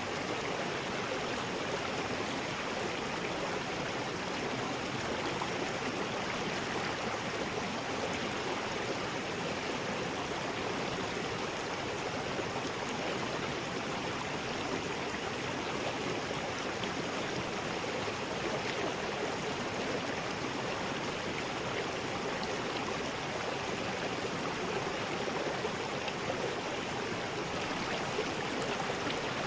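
River rapids: water rushing over rocks in a steady, even roar.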